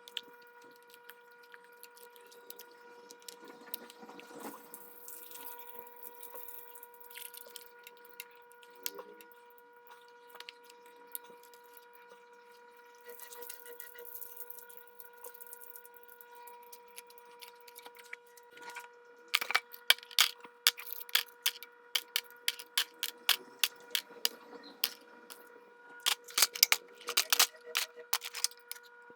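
Hands and tools working on a Singer domestic sewing machine: irregular sharp clicks and taps of metal parts, sparse at first, then coming thick and loud for the last ten seconds, over a faint steady whine.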